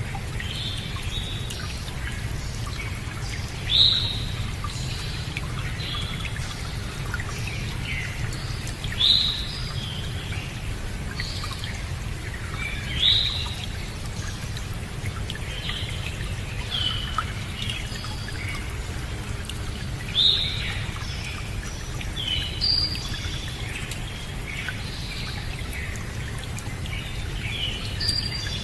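Birds singing, one of them repeating a loud, high call every four or five seconds with softer chirps between, over a steady low rush of flowing water.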